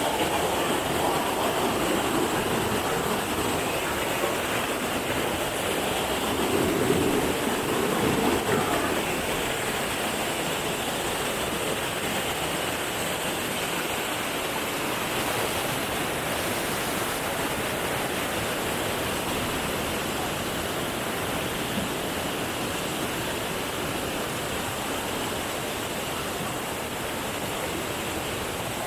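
Waterfall: a steady rush of falling water, slightly louder about seven to eight seconds in.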